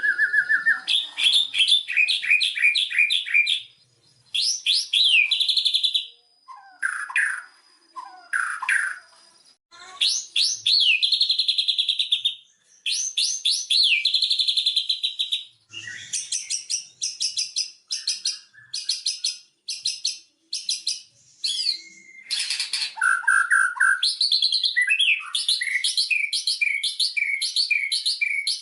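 White-rumped shama singing a long, varied song: phrases of fast repeated chirps, rising and falling whistles and trills, with short pauses between them.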